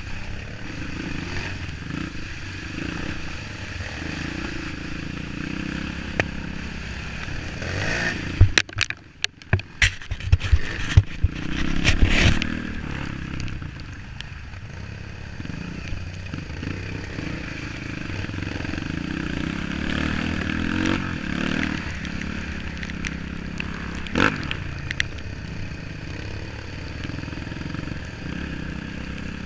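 Off-road trail motorcycle engine running steadily, with a burst of knocks and clattering about eight to twelve seconds in, and another single knock near the end.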